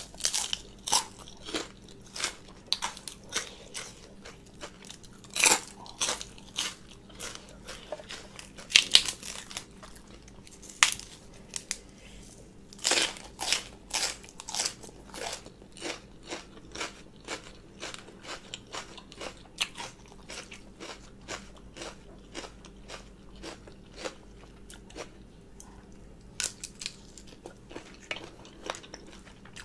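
A person chewing spicy green papaya salad and raw vegetables: a steady run of crisp crunches and bites, the loudest between about five and fifteen seconds in.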